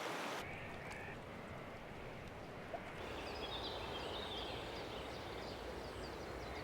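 Quiet outdoor ambience: a steady, even rush of noise with faint, short, high bird chirps from about three seconds in.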